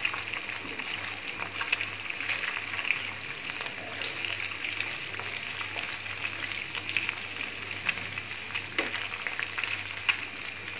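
An egg and chicken pieces frying in hot oil in a nonstick pan, sizzling and crackling steadily as the egg is stirred and broken up, with a few sharper pops.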